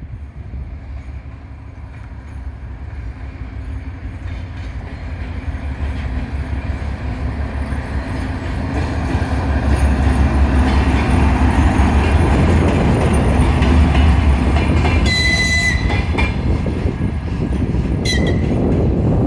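TGM4L diesel-hydraulic shunting locomotive moving with a gondola wagon: a heavy engine rumble with rolling wheel noise that grows steadily louder as it comes closer. Two short high-pitched tones cut in near the end, the first about a second long, the second briefer.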